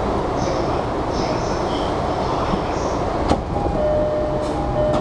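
Steady noise inside a standing JR E233-series commuter train car, with a sharp click about three seconds in. After the click a faint two-note chime repeats.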